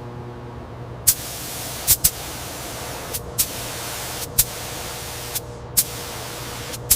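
A steady hiss of spray, cutting out briefly twice, with sharp clicks about once a second over a low steady hum.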